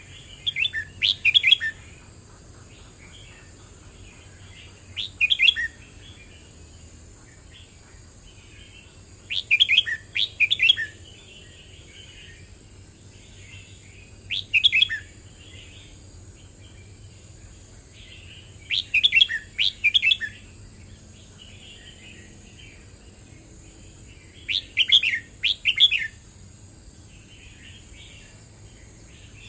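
Red-whiskered bulbul singing: six short, bright phrases of about a second each, repeated roughly every five seconds, with softer chattering between them.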